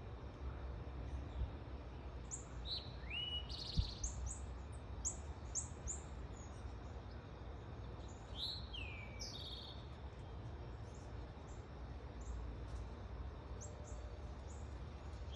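Sparrow chirping: short high chirps and a few downward-sliding calls, busiest a few seconds in and again about halfway, over a steady low rumble. A single soft knock sounds about four seconds in.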